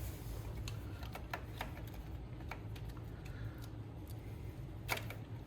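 Scattered light metallic clicks and ticks of hand work on a GY6 scooter engine's top end, with a small cluster of clicks near the end, over a steady low hum.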